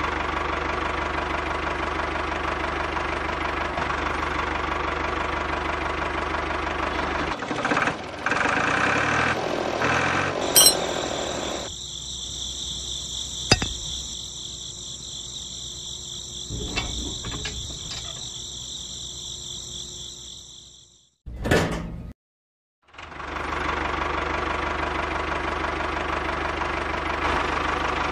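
A small engine running with a fast, even knocking. About ten seconds in it gives way to a high steady whine with scattered clicks, which cuts off after a brief silence; then the engine is heard running again.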